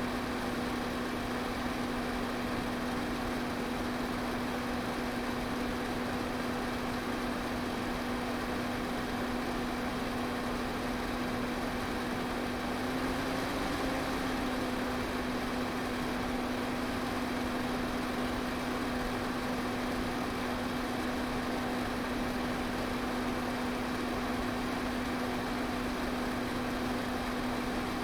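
Electric fan running steadily: an even rush of air over a constant motor hum, the hum wavering slightly about halfway through.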